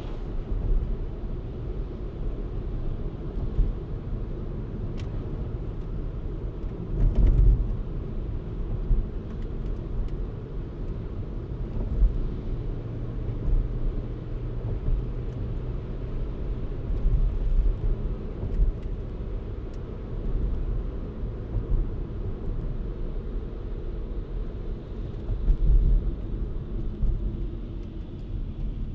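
Car driving along a city street: a steady low road and engine rumble, with a few louder swells and bumps.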